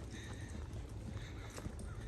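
Footsteps walking along a trail, a few soft steps over a low steady rumble. A faint bird call is heard near the start.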